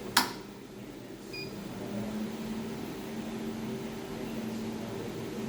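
A sharp switch click, a short high beep about a second later, then the 200-watt jewelry laser welding machine starting up and running with a steady low hum as it powers on.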